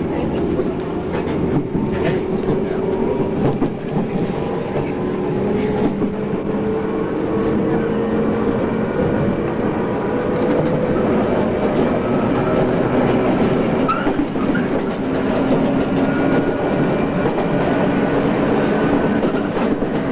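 JR East 113 series electric train running, its motor and gear whine climbing slowly in pitch as it gathers speed, over a steady rumble with a few faint clicks of wheels over rail joints.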